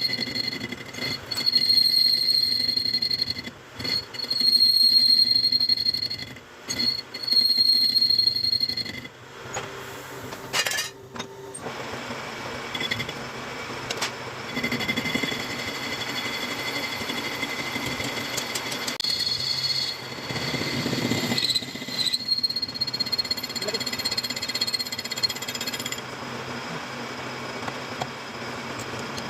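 Metal lathe cutting metal, with a steady high whine and rattle. It comes in three loud stretches over the first nine seconds, then runs on more quietly and steadily after a short break.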